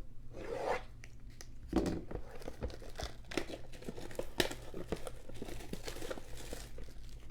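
Crinkling and tearing of the plastic wrapping on a blaster box of NBA Hoops basketball trading cards as it is opened. From about two seconds in come many quick rustles and clicks.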